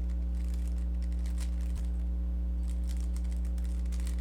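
Rubik's cube layers being turned in quick runs of light plastic clicks, like typing, as an OLL algorithm is executed. A steady low electrical hum lies under it and is the loudest sound throughout.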